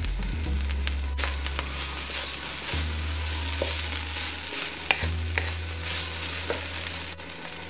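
Smoked herring and diced onion sizzling in oil in a nonstick wok, stirred and turned with a wooden spatula, with a few scrapes and taps of the spatula against the pan over a steady low hum.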